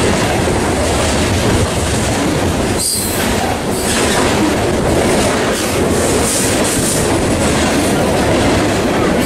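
A train rolling past at close range: a steady, loud rumble and rattle of wheels on rail, with brief high wheel squeals about three and six seconds in.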